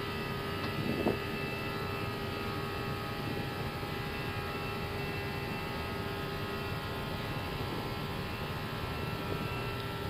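Airbus A320 takeoff roll heard from the cockpit at flex takeoff thrust: steady engine and runway rumble with several steady engine tones as the airliner accelerates toward 100 knots.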